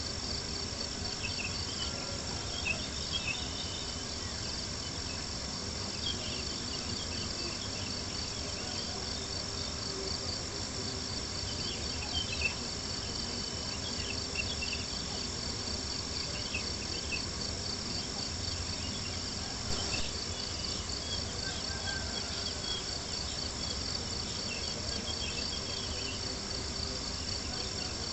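Crickets chirping in a steady, continuous high trill, with a campfire crackling and popping a few times.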